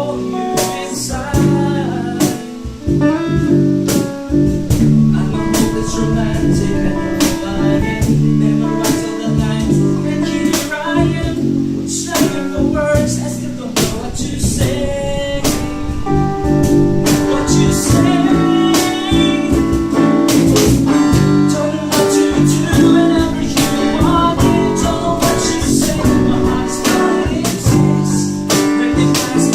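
A band playing live at rehearsal: guitar and drums with a voice singing, the drum strokes hitting steadily throughout.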